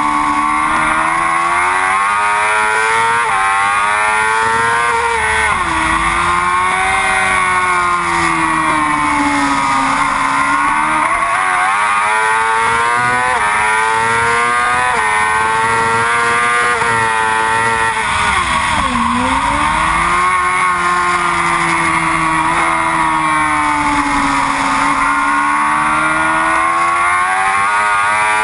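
Yamaha R6 sport bike's inline-four engine at racing speed: the pitch climbs in quick steps as it shifts up through the gears, and drops sharply twice as it slows for corners.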